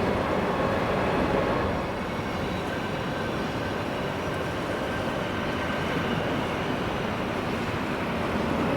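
Electric train running by with a steady rumble and rushing noise, a little quieter from about two seconds in.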